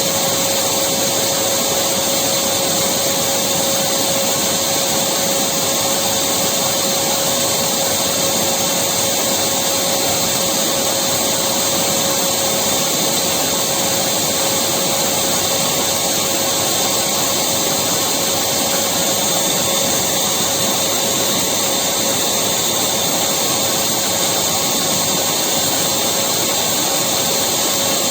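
Electric vacuum cleaner running steadily, a constant rushing whine with a steady hum, unchanging throughout.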